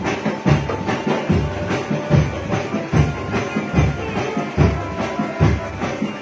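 Marching drum band (drumben) playing: a steady beat of heavy bass drum hits, a little more than one a second, under dense snare and other percussion strikes.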